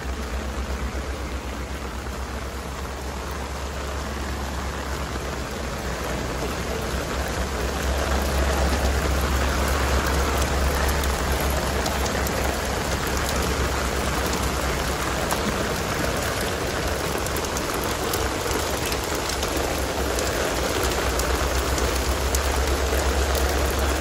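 Heavy typhoon rain pouring steadily, a dense hiss of water with a low rumble beneath it; it grows a little louder about eight seconds in.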